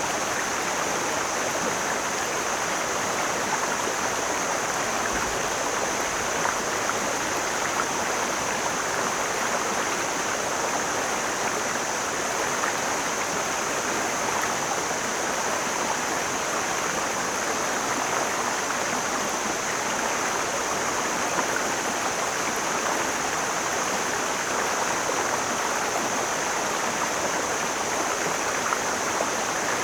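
Mountain stream flowing: a steady rushing of water that does not change.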